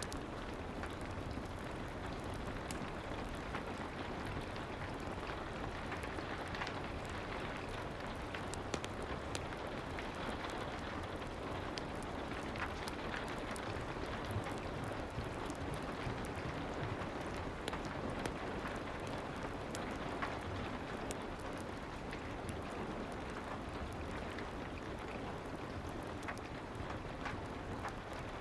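Steady soft rain ambience, mixed with a fireplace, with many small scattered clicks and crackles throughout.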